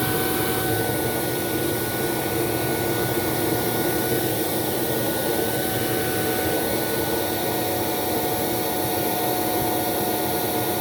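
Hoover C2401 backpack vacuum's two-stage Ametek motor running steadily, a steady whine over the rush of air, during an airflow test.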